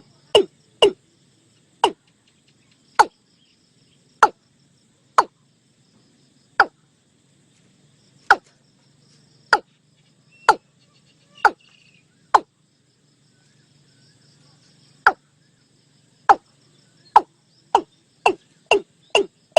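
Watercock calling: a series of short, sharp notes, each falling quickly in pitch. They come about one a second, pause briefly, then speed up to two or three a second near the end.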